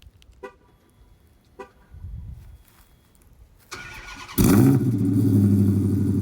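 A few faint clicks, then the starter cranks the Dodge Charger R/T's 5.7 Hemi V8 for about half a second before it fires with a loud flare and settles into a steady cold-start fast idle. It runs through Corsa Xtreme exhaust with JBA long-tube headers and no catalytic converters.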